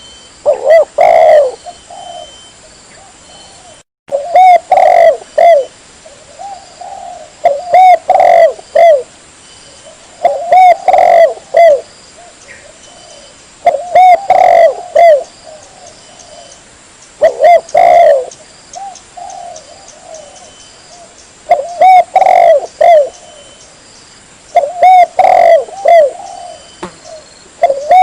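Spotted dove cooing: a phrase of several coos repeated about every three and a half seconds, eight times.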